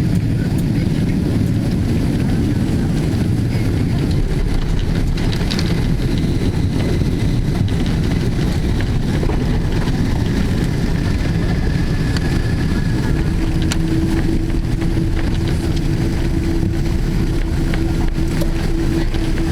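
Steady low rumble of a Boeing 777-200ER heard from inside the cabin as it rolls on the ground after landing. About two-thirds of the way through, a steady hum comes in over the rumble.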